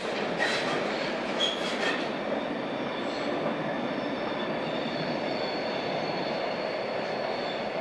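A railway train rolling on the rails, a steady rumble with a few brief high wheel squeals in the first two seconds.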